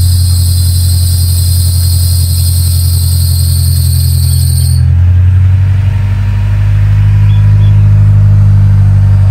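Mitsubishi Pajero TR4's engine idling with a loud, deep exhaust rumble. A high-pitched squeal from the wet drive belt rides over it and cuts off suddenly about five seconds in.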